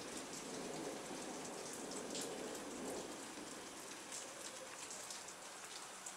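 Thunderstorm rain falling: a steady hiss of rain with scattered drops ticking close by, easing slightly over the few seconds.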